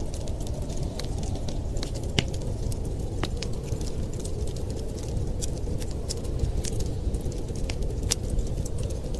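Wood fire crackling, with scattered sharp pops and snaps at irregular intervals over a steady low rumble.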